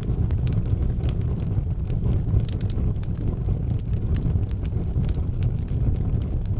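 Wood fire burning in an outdoor fireplace: a steady low rumble with scattered sharp crackles and pops.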